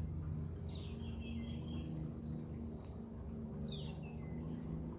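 Wild birds chirping outdoors: a few short high chirps and one louder, falling call about three and a half seconds in, over a low steady hum.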